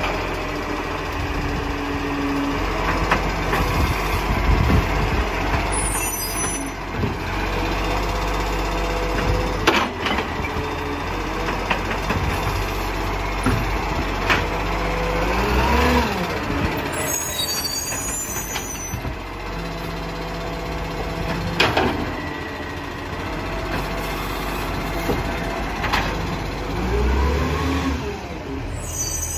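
Recycling garbage truck working a collection: the diesel engine runs steadily while the hydraulics whine up and back down twice, with sharp knocks about 10 and 22 seconds in and short air hisses three times.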